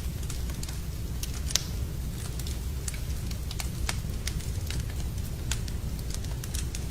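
Wood fire in a fireplace crackling, with frequent sharp irregular pops over a steady low rumble of the burning fire. The loudest pop comes about a second and a half in.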